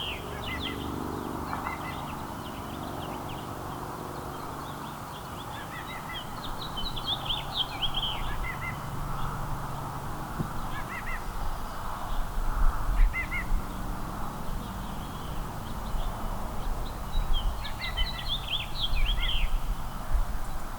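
Small songbirds chirping in quick clustered bursts, three spells of chirping separated by quieter gaps, over a steady background hiss and a low rumble that grows louder in the second half.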